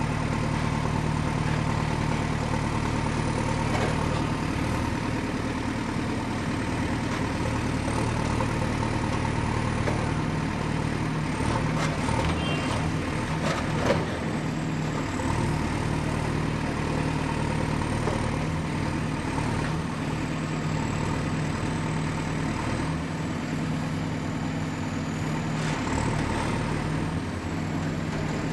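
Diesel excavator engine running steadily under work, with a faint high whine that drifts in pitch and a sharp clank about halfway through.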